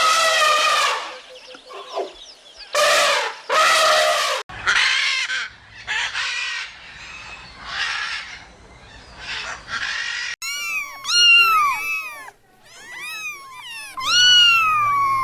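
A series of different animal calls joined with abrupt cuts: several long calls with a clear pitch, then quick chirping calls that rise and fall, ending in one longer call that falls in pitch.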